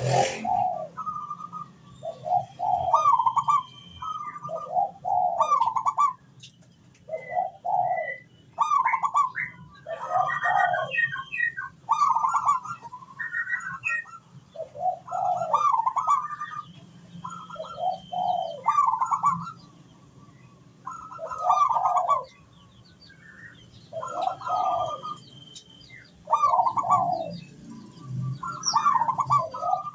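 Zebra dove cooing in short repeated phrases, roughly one every two seconds. Thin high chirps from other small birds sound above it, and a low steady hum runs beneath.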